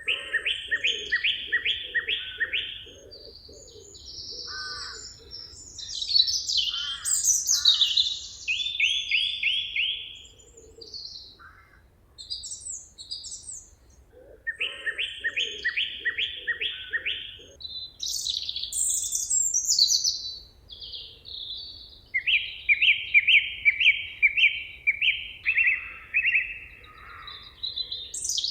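Several songbirds singing over one another in a forest: phrases of quick repeated high notes and short chirps follow one after another, with a lower pulsing call at the start and again about halfway through.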